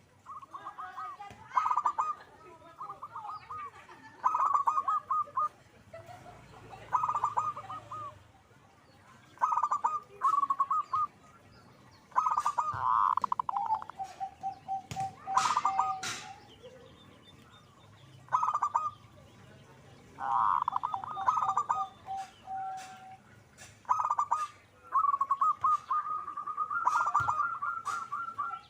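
Zebra dove (perkutut) calling over and over: bursts of quick, stuttering cooing notes with short pauses between, and twice a phrase ending in a lower, even trill.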